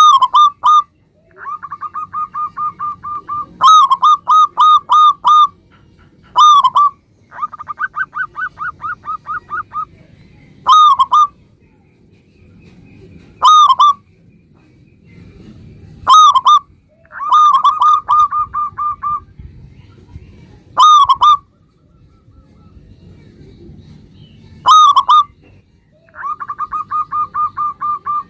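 Zebra dove (local perkutut) singing: rapid runs of short staccato coos alternate with louder, bending coo notes, the phrases repeating every couple of seconds.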